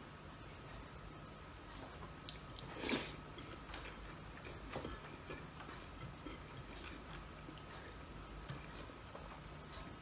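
Faint chewing and mouth sounds of a man eating rice and fried fish by hand, with small clicks throughout and one louder, short sound about three seconds in.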